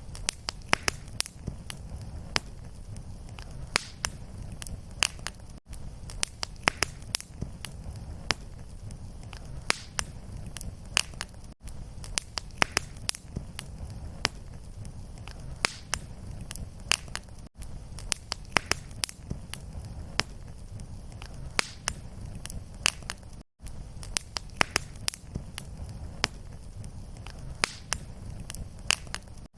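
Fireplace wood fire crackling, with irregular sharp pops and snaps over a steady low rumble. The sound cuts out for an instant about every six seconds, like the seam of a looped recording.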